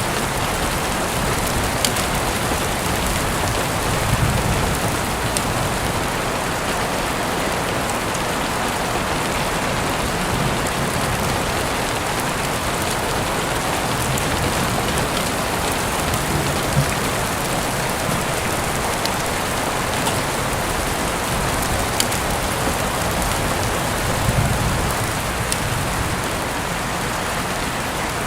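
Steady heavy rain falling on surfaces, an even hiss with scattered faint sharp clicks of drops.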